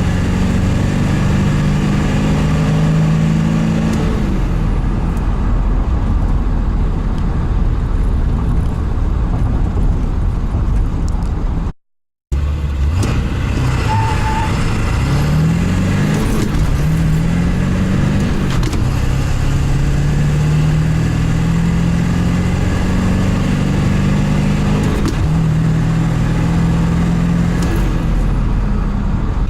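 1999 Ford F-350's 7.3 L Powerstroke turbo-diesel V8 under acceleration, its pitch climbing and dropping back at each shift of the six-speed manual. The sound drops out for a moment about twelve seconds in.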